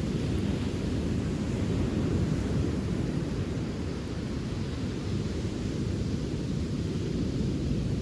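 Steady low rumble of wind buffeting the microphone by the sea, with no distinct crackles or other events standing out.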